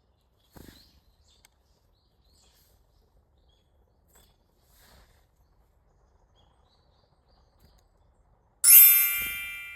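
Mostly faint ticks and a brief soft chirp, then near the end a sudden loud, bright ringing sound with many overtones, like a struck chime, that fades away over about a second.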